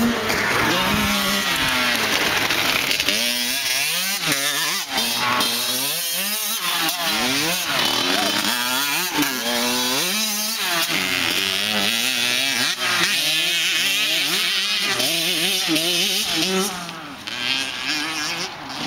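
Motocross dirt bike engines revving up and down over and over as the bikes ride around the track, with a buzzy, chainsaw-like note. The sound drops a little near the end as the bikes get farther away.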